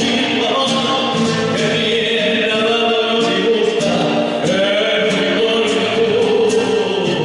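Argentine folk song with several voices singing together in held, sliding lines over a steady percussion beat.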